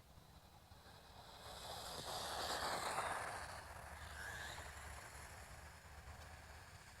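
Wltoys 124017 RC buggy with its 2845 4300KV brushless motor, running at speed. The faint motor whine and tyre noise swell about two to three seconds in, then fade as the car runs off.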